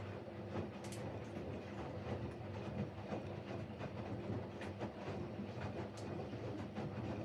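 Siemens Siwamat Plus 574 front-loading washing machine tumbling the laundry in its rinse cycle. The drum motor hums steadily while the wet wash and water slosh in the turning drum, with occasional sharp ticks.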